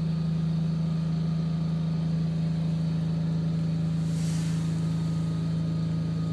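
An engine running steadily at idle: a constant low hum that never changes in pitch or level. A brief hiss is heard about four seconds in.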